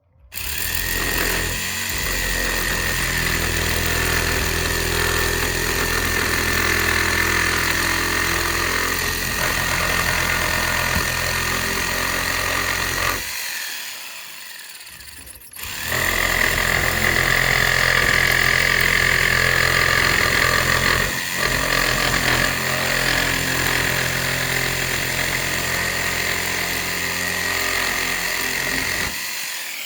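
Power tool running at full speed while cutting, in two long runs with a short stop about 13 seconds in.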